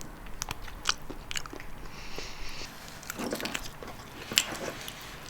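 Braised pig trotters being bitten and chewed by hand, with scattered short, sharp smacking clicks of mouth and teeth on skin and bone.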